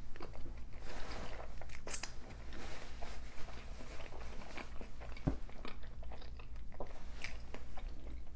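Close-miked chewing of a consommé-dipped birria taco, with irregular sharp mouth clicks and one louder click about five seconds in.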